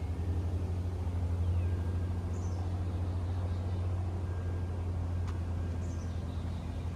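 Wind rumbling steadily on the microphone, with two faint high bird chirps about two and a half and six seconds in.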